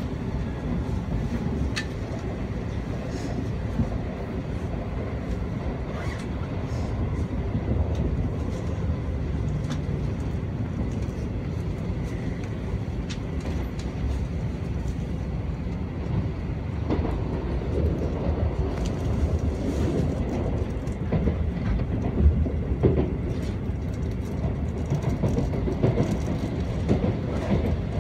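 N700A Shinkansen train running at speed, heard from inside the passenger cabin: a steady low rumble of wheels and running gear, with many faint clicks along the way.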